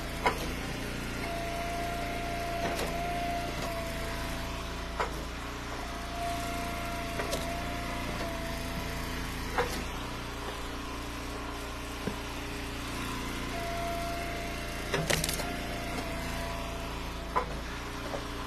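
Eastonmade Ultra wood splitter's engine running steadily, with a whine that comes in three times for a few seconds as the splitter works. Sharp cracks and knocks every couple of seconds as ash rounds split and pieces drop.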